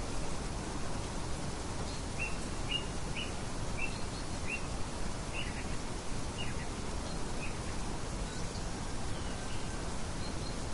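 Bird chirping: a run of about eight short, evenly spaced chirps a couple of seconds in, with a few fainter higher chirps around them, over a steady low background noise.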